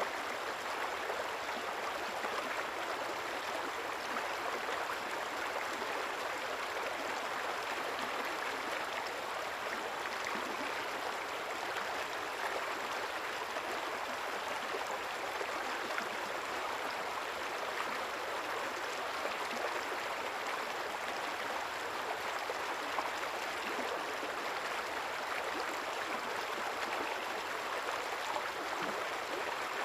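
A river's shallow water flowing and gurgling steadily, with a constant rushing hiss.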